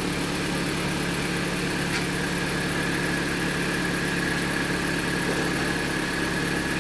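Freshly replaced car engine idling steadily. About two seconds in there is a click, after which a steady high whine runs over the idle.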